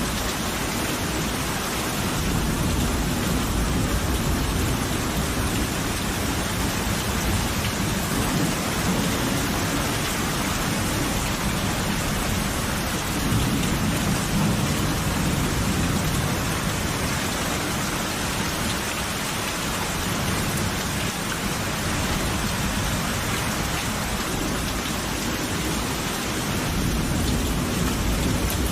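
Steady heavy rain with rolling thunder rumbling low several times through a thunderstorm.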